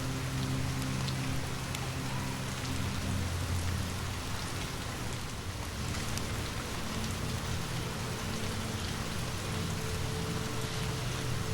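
Steady rain falling, with scattered faint ticks through it and a low steady hum underneath.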